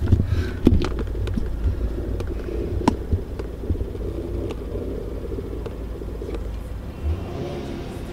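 Low, steady car engine rumble heard from inside a car's cabin, with a few sharp clicks and knocks and a brief swell in the rumble about seven seconds in.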